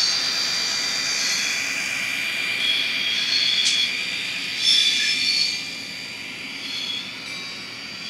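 An ESU LokSound Micro sound decoder in an N scale F40PH model playing diesel-locomotive engine sound through its tiny speaker. The sound is a steady, thin, high-pitched whine that swells a couple of times and drops lower after about six seconds.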